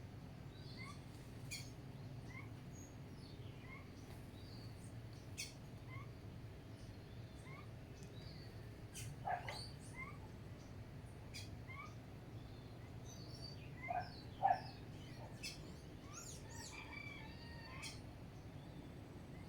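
Birds calling: one short chirp repeats steadily about every second, a few louder calls break in around the middle, and a burst of varied chattering calls comes near the end, over a faint steady low hum.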